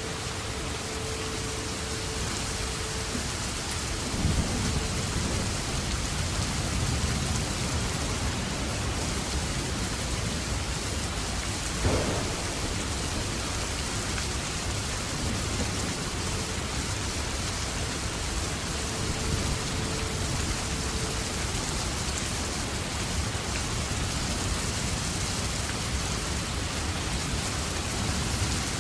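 Steady rain, with low rumbles of thunder starting about four seconds in. A single sharp tap sounds near the middle.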